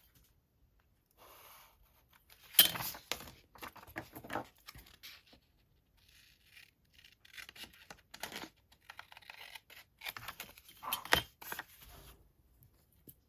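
Paper being handled and torn: irregular rustles, scrapes and short tearing sounds with quiet gaps between them, the loudest about two and a half seconds in and another about eleven seconds in.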